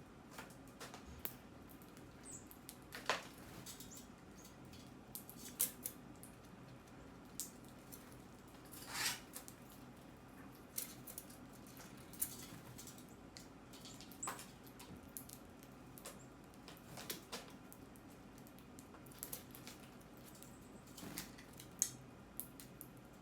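Scattered faint clicks and taps from birds pecking at seed, coming at irregular intervals over a low steady background.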